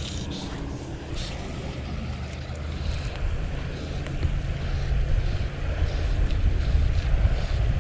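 Wind buffeting the microphone, a gusting low rumble that grows louder in the second half.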